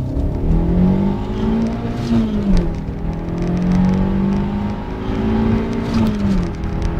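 Volkswagen Polo Mk3 engine accelerating hard through the gears. Its pitch climbs, drops sharply at an upshift about two and a half seconds in, climbs again, and drops at a second upshift near the end.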